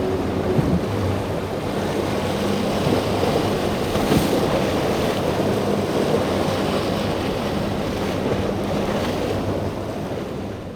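Motorboat engine running amid breaking waves, with wind buffeting the microphone. The sound fades out at the very end.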